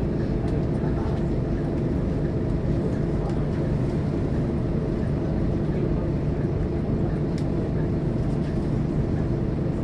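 Scania K230UB city bus's five-cylinder diesel engine running steadily under way, heard inside the passenger cabin, with a constant low hum and drone.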